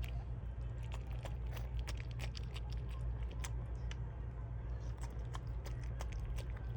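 Mother dog licking a newborn puppy: irregular small wet clicks over a steady low hum.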